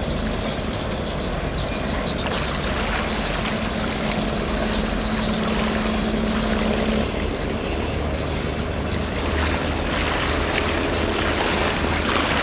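Steady low rumble of a passing container ship under way, with a broad rushing noise over it. A steady hum in the rumble shifts to a lower pitch about seven seconds in.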